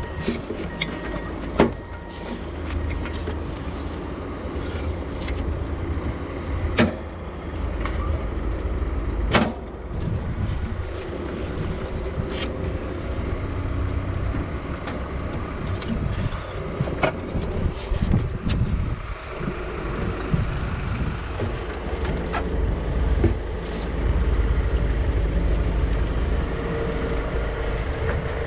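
Semi truck's diesel engine idling with a steady low rumble, broken by scattered sharp clicks and knocks, the loudest about a second and a half in.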